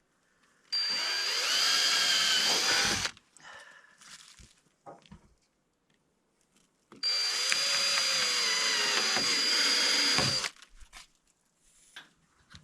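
Power drill running twice through a plastic roofing panel, each run a few seconds long and steady, its pitch sagging toward the end of each run as it loads up.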